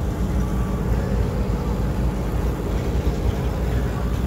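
Steady low rumble of an engine running, holding an even pitch.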